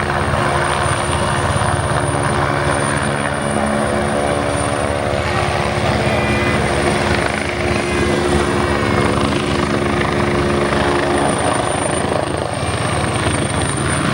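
Helicopter hovering: continuous rotor and engine noise with a steady high whine above it.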